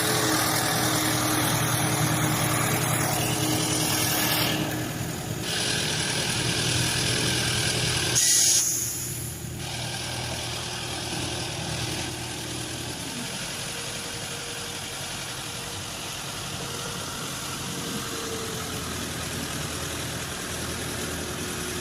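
Motor vehicle engines idling and running steadily, with a brief louder rushing noise about eight seconds in. After that the engine sound settles a little quieter.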